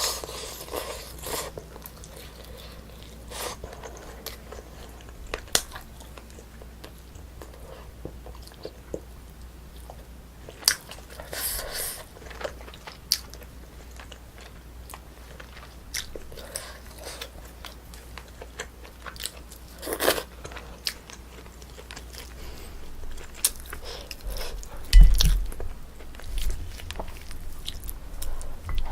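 Close-miked biting and chewing of Korean braised spicy chicken (dak-bokkeum-tang), with scattered wet mouth clicks and smacks. A few dull, low thumps come near the end.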